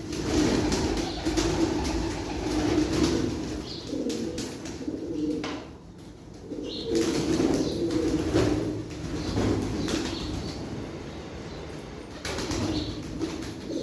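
Domestic pigeons cooing in low, repeated phrases, with sharp bursts of wing flapping in between.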